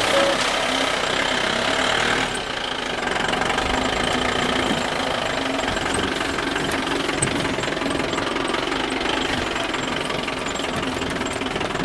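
Steady mechanical rattling like a small engine running, from a toy vehicle, dipping slightly about two seconds in.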